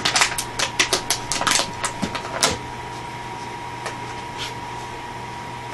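Empty plastic water bottle crackling and clattering as a Havanese puppy chews and bats it: a quick run of crackles over the first two seconds or so, then a few scattered clicks.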